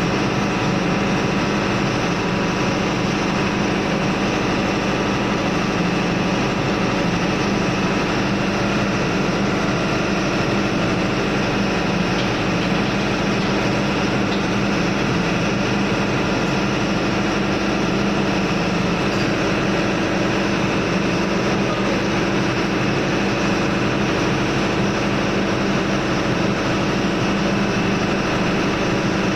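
Ship's engine-room machinery running, a loud steady drone with a constant hum that does not change in pitch or level.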